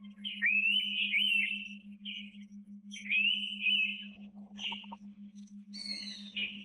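Indian pitta whistling two loud phrases about three seconds apart, each opening with a rising sweep that breaks into wavering notes. Shorter bird chirps follow near the end, over a steady low pulsing hum.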